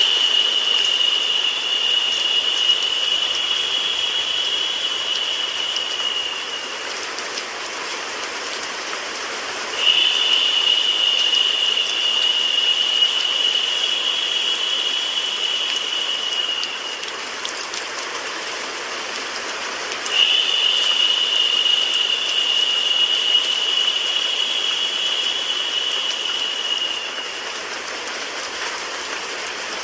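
Steady rain and white-noise hiss for sleep. A high, steady whine comes in over it for about seven seconds, drops out for about three, and returns, three times over.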